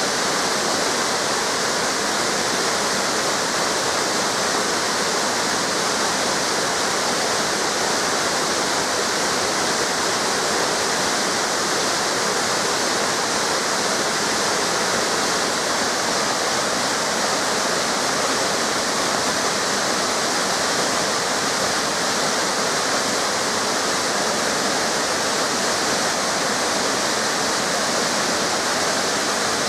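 Waterfall cascades pouring steadily, a constant rush of falling water with no change in level.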